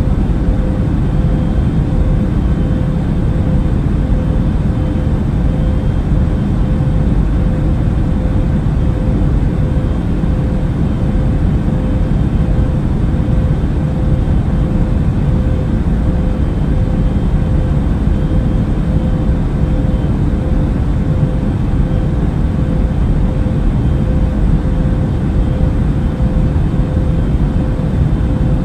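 Airliner cabin noise in flight: a steady, deep rumble of engines and rushing air, with a faint constant hum tone above it.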